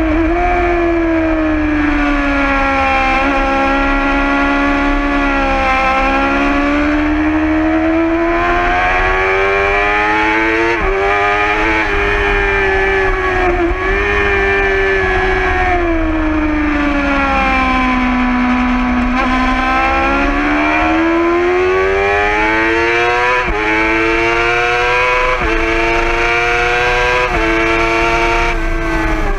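2011 Yamaha R6's inline-four engine at track speed, revving hard up through the gears with sudden drops in pitch at each upshift, then winding down on the overrun and climbing again out of corners.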